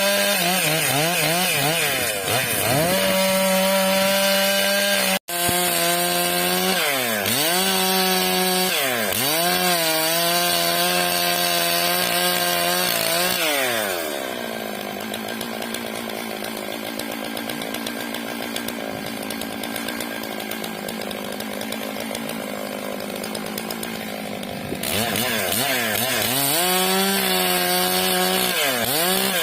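Stihl MS 661 two-stroke chainsaw ripping a eucalyptus log lengthwise, its engine pitch repeatedly sagging and recovering as the chain bites into the wood. The sound cuts out for a moment about five seconds in, and from about halfway the saw runs quieter and lower for some ten seconds before coming back to full revs near the end.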